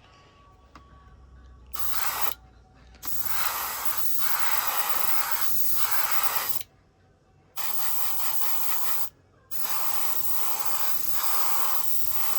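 Paint spray hissing out in four sharp-edged bursts, the longest about four seconds, with short pauses between them.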